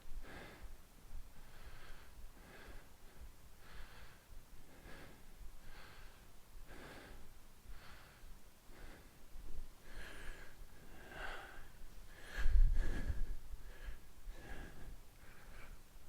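A man breathing through the nose at an even pace while doing calf raises, a short breath every half second or so. About twelve and a half seconds in there is one louder, deeper sound.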